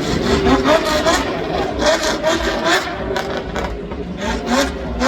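A car's engine running on the hill climb course, with a man's voice talking over it.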